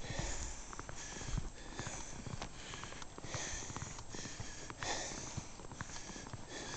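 Footsteps crunching in fresh, deep snow at a walking pace, about one step a second, with low rumble from wind on the microphone.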